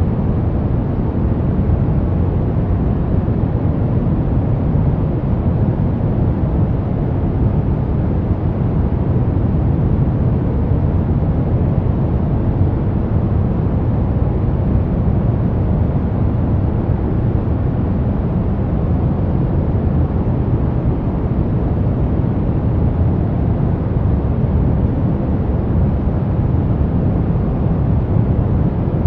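Brown noise: a steady, deep rushing hiss, strongest in the bass and fading toward the treble, unchanging throughout.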